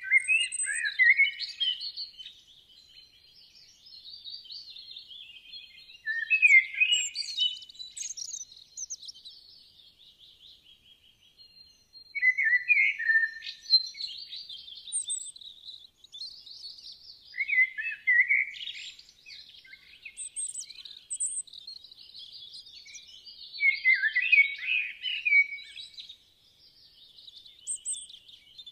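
Songbirds singing: loud bursts of chirps and warbling phrases every few seconds, with quieter twittering between them.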